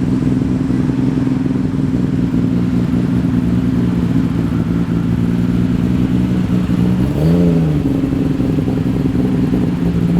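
Muscle car engine idling steadily, with one short throttle blip about seven seconds in that rises and falls in pitch.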